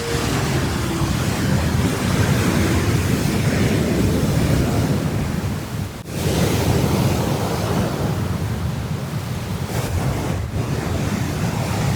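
Rough winter sea surf washing in steadily, with wind buffeting the microphone. The sound dips briefly about six seconds in.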